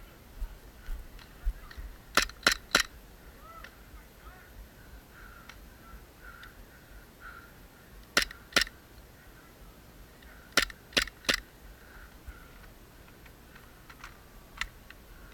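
Airsoft Glock pistol firing in quick strings: three shots, then two, then three, each about a third of a second apart, with a single fainter shot near the end.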